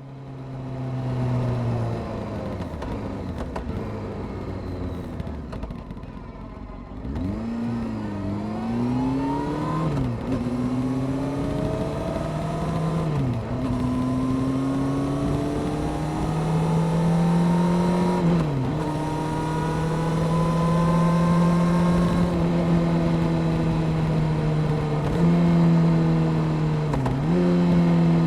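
Honda CBR600F Sport inline-four motorcycle engine heard while riding. The note fades in and sags at first, then climbs repeatedly under acceleration, dipping sharply at each gear change, about five times.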